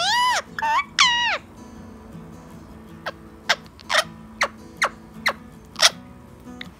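Ringneck parakeet calling: two loud whistled calls that arch up and fall away within the first second and a half, then a string of about seven short, sharp chirps.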